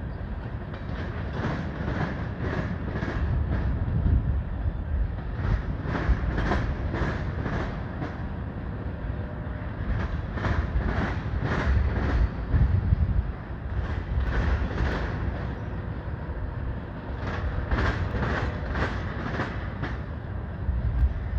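A long freight train rolling past, its cars making a continuous low rumble. Clusters of sharp wheel clicks come every few seconds as the cars' wheel sets pass.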